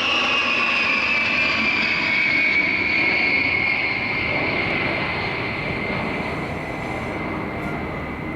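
Four-engine Boeing 707-based EC-707 Cóndor jet flying past. Its high whine drops in pitch over the first few seconds and then holds, while the engine noise slowly fades as it moves away.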